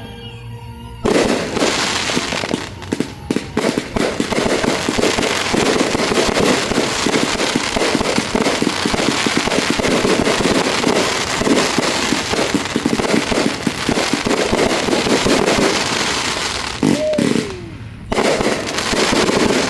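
Aerial fireworks going off in a dense barrage of rapid crackles and pops, starting about a second in and breaking off briefly near the end before starting again.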